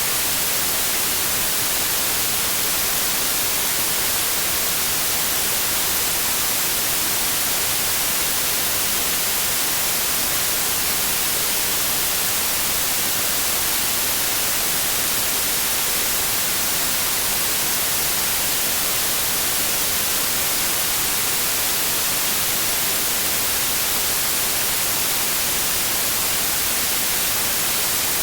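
Steady synthetic white noise: a constant even hiss with no pattern or change, brightest in the highest pitches.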